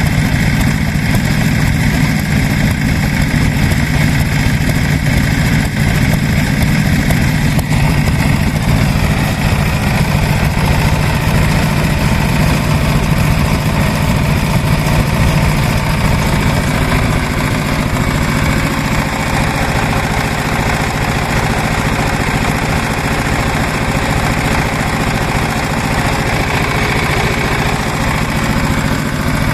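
Old stationary engines running steadily at idle with a rapid, even firing beat.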